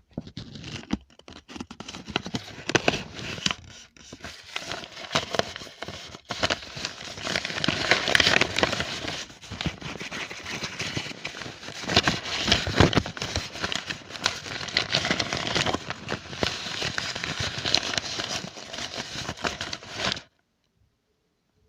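Close-up ASMR crinkling and crumpling of a crisp material in the hands, an irregular run of crackles and rustles that cuts off suddenly near the end.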